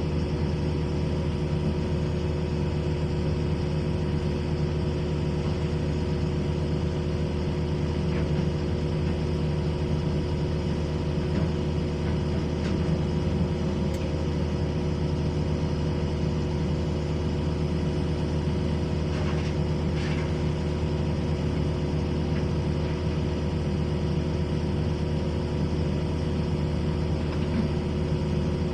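Diesel engine of a Sumitomo SH210 hydraulic excavator running steadily at an even pitch, with a few faint clanks.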